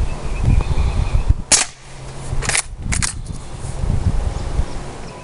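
Umarex Legends Cowboy lever-action CO2 BB rifle fired rapidly, its lever cycled between shots: three sharp cracks within about a second and a half, starting about a second and a half in.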